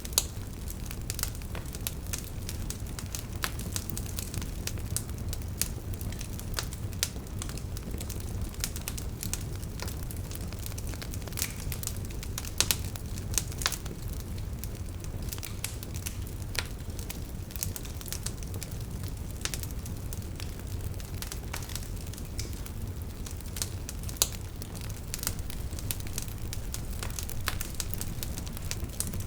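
Wood fire burning, with irregular sharp crackles and pops from the logs over a steady low rumble of the flames.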